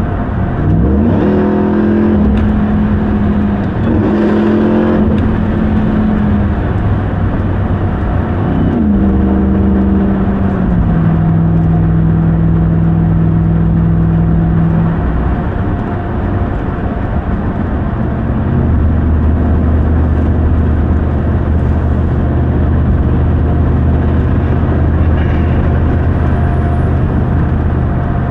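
2021 RAM 1500 TRX pickup's supercharged 6.2-litre Hemi V8 accelerating, its pitch climbing in short pulls about a second in, around four seconds in and around nine seconds in. It then settles into a steady low cruising drone.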